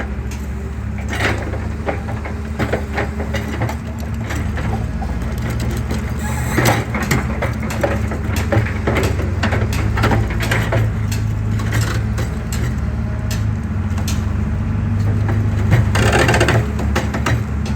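Excavator engine running steadily under load while concrete is crushed, with repeated cracking and crunching as the pillar breaks apart, heaviest around a third of the way in and near the end.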